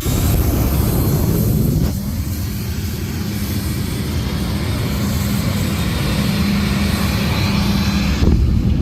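Jet dragster's jet engine running with a loud, steady rumble. It dips about two seconds in and then slowly builds back up.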